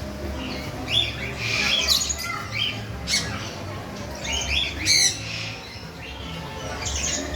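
Birds squawking: a string of short, harsh calls, several close together around the first two seconds and again at about three and five seconds.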